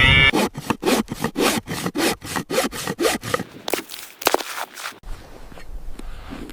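Rapid rhythmic scraping, about five short strokes a second, that stops about five seconds in.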